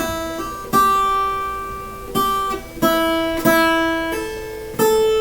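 Acoustic guitar playing a song's opening chords: about six struck chords, each left to ring and fade before the next.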